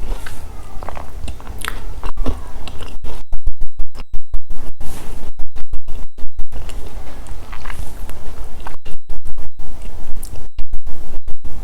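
Close-miked biting and chewing of Milka chocolate snacks, with crisp crunches over a loud low hum. The sound repeatedly cuts out in short stutters about three seconds in, around nine seconds and again near the end, because the microphone is badly connected.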